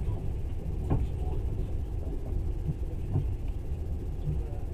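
Passenger train running, heard from inside the carriage: a steady low rumble with a couple of short knocks about one and three seconds in.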